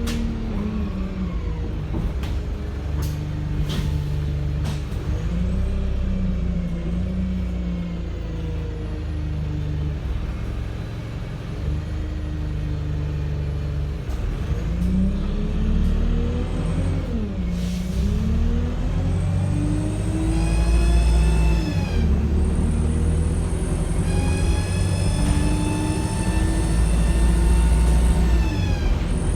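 Wright StreetLite single-deck bus heard on board, its diesel engine working hard and rising and falling in pitch as it pulls away and changes gear. In the second half a high, many-toned whine climbs in pitch alongside the engine.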